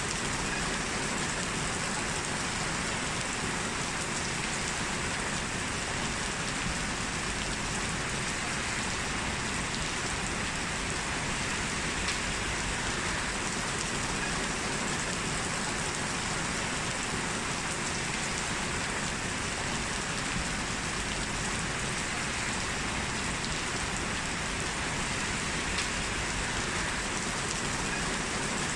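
Heavy rain falling steadily, a dense even hiss of drops with a few sharper drop ticks here and there.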